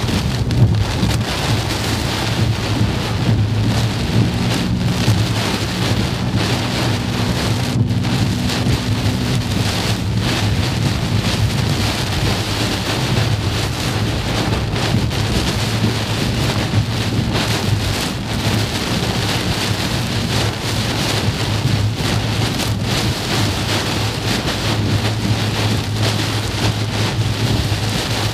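Heavy wind-driven rain pelting a car's windshield and roof, heard from inside the cabin as a dense, constant patter over a low steady hum.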